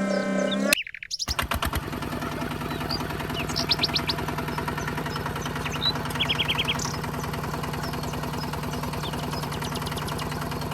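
A small electric motor running steadily with a fast, even buzz and a low hum, starting about a second in after a rising siren-like sound cuts off. Two short bursts of bird chirping come over it.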